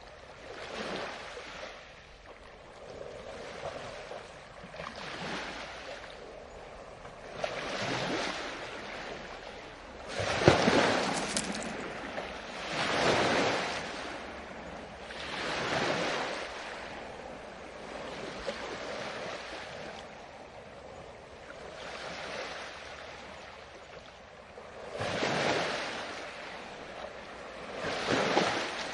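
Ocean waves breaking on a beach: a rushing surge rises and falls every two to three seconds, loudest around ten to thirteen seconds in and again near the end.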